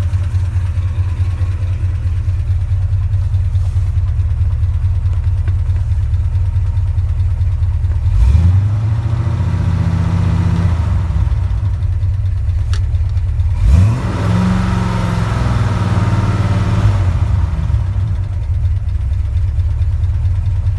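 390 V8 engine idling with the lifter noise the owner is recording, revved up twice, each rev climbing quickly, holding for a couple of seconds and dropping back to idle.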